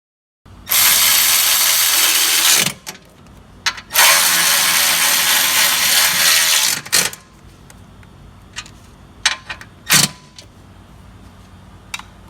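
Cordless electric ratchet running in two bursts of about two and three seconds, driving bolts down tight, followed by scattered light clicks and knocks.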